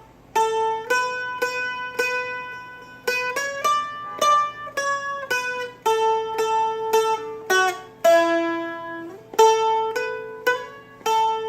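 Seagull Merlin M4, a four-string dulcimer-style instrument, flatpicked through a bouncy Celtic solo melody one note at a time at a slow, even pace. The drone strings ring steadily underneath.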